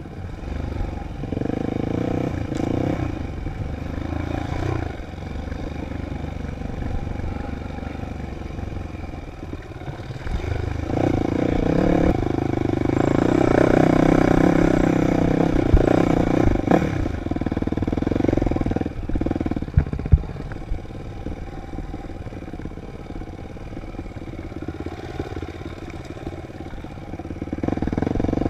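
Dirt bike engine running under changing throttle, its pitch rising and falling as it revs and shifts; it is loudest and highest in the middle. A few sharp knocks and rattles come near the end.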